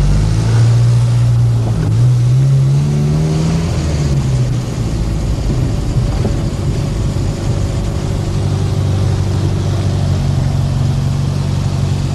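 Car engine running, heard from inside the car: its pitch rises about two seconds in, falls back a couple of seconds later, then it runs on steadily.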